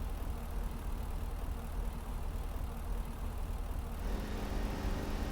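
Train running, a steady deep rumble. About four seconds in, a faint humming note with several tones and a brighter rushing noise join it.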